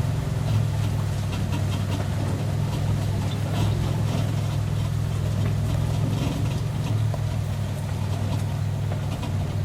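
Vehicle engine idling with a steady low hum, and faint short high-pitched sounds here and there above it.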